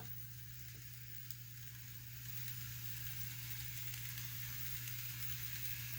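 Faint, steady hissing rolling noise from an N scale model train running on the track: the Kato locomotive's motor and the wheels of a long string of cars, over a low steady hum. It grows slightly louder after about two seconds.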